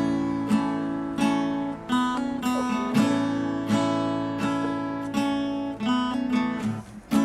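Acoustic guitar strumming the instrumental intro of a song, one ringing chord about every 0.7 s; near the end the strokes turn short and choked.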